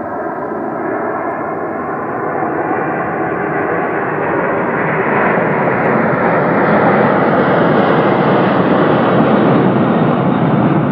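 Jet engines of a Boeing 747 carrying one Boeing 787 engine, at takeoff power: a loud, steady roar that grows louder throughout, with several steady tones above it in the first half that fade out about halfway.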